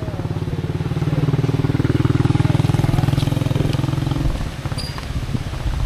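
A small engine running steadily, growing louder over the first couple of seconds, then dropping off suddenly about four seconds in.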